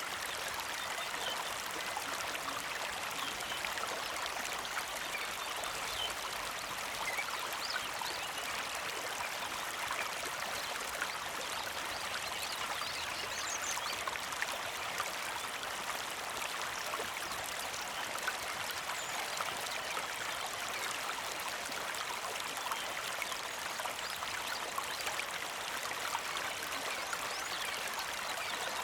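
Small mountain creek flowing and trickling over stones: a steady, even rush of water.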